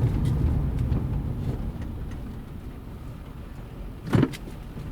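Suzuki Grand Vitara's road and engine rumble heard from inside the cabin at low speed, fading as the car slows on a brake test, with no brake squeal; a single short, sharp knock about four seconds in.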